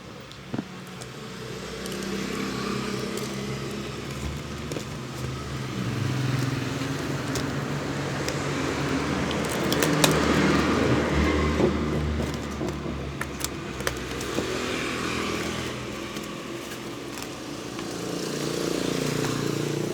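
Motor vehicle engines running, growing louder to a peak about halfway through and again near the end, with a few sharp clicks around the middle.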